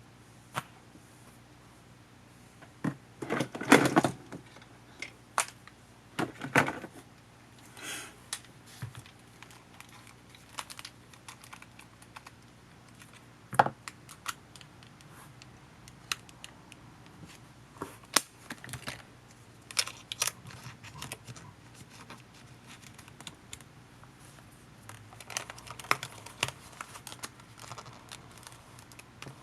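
Scattered small clicks, taps and brief rustles of a compact camcorder's plastic parts and small tools being handled during disassembly, the loudest cluster about four seconds in.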